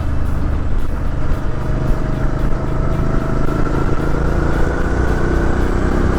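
Suzuki V-Strom 650 XT's V-twin engine running at low speed in traffic. About halfway through, a faint whine rises slowly in pitch.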